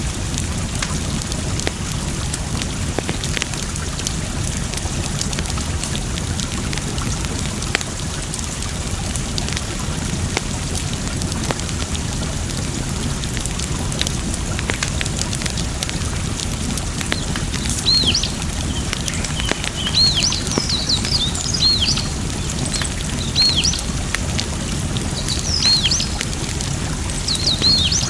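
A wood fire crackling, with scattered sharp pops, over a steady rush of running water. From about two-thirds of the way in, a bird chirps over and over in short high calls.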